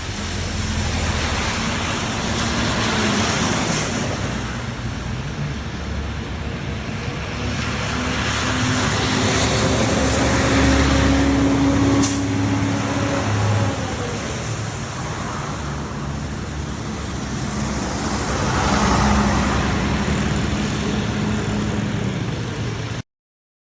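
Large bus diesel engine running as the coach moves, over a steady hiss of traffic noise; the engine note grows louder toward the middle, then drops off sharply. A single sharp click comes about halfway, and the sound cuts off suddenly near the end.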